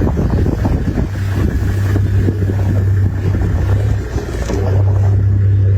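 Wind buffeting the microphone in a low, lumpy rumble, with a steady low hum underneath that breaks off briefly about four seconds in.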